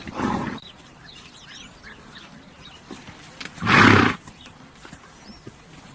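A horse snorting twice: a short blow at the start and a louder one about four seconds in.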